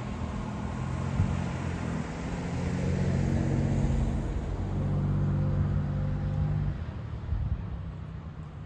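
Car driving along a road: engine hum and road noise building as it picks up speed, the engine note stepping up twice, then easing off about seven seconds in.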